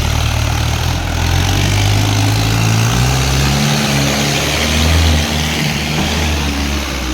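Mahindra Arjun 555 tractor's diesel engine running loud and steady, its engine speed changing about a second in and again about three seconds in.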